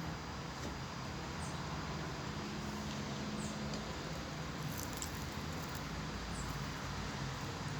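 Quiet eating sounds: soft chewing and small mouth or cutlery clicks every second or so over a steady low hum and hiss.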